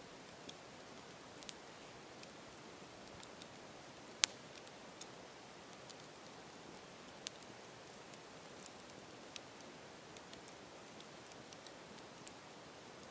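Campfire burning: a soft steady hiss with scattered sharp crackles and pops, the loudest about four seconds in.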